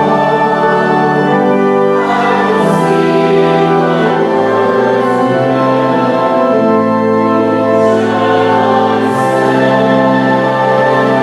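Organ and voices singing a slow hymn together, long held chords shifting every second or two.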